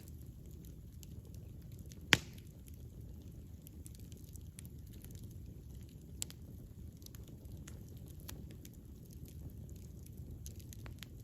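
Campfire burning: a low steady rumble of flames with scattered small crackles, one sharp loud pop about two seconds in and a smaller pop about six seconds in.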